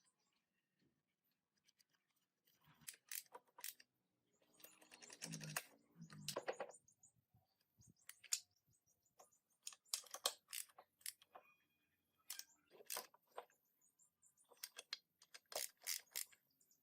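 Scattered light clicks and knocks of metal parts being handled, with a short scraping stretch about five seconds in.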